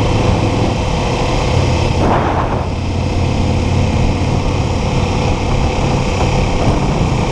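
Kawasaki Ninja 400 parallel-twin engine running steadily at cruising speed, with wind buffeting the microphone. A short rushing sound comes about two seconds in.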